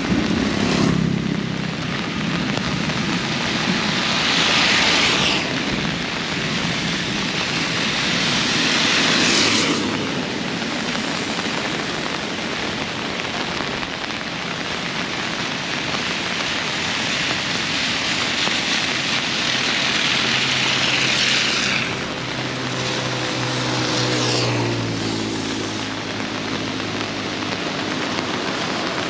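Heavy rain falling steadily. Vehicles pass on a wet road: the hiss of tyres through water swells and fades about four times. In the last third, an engine hum rises and falls as one vehicle goes by.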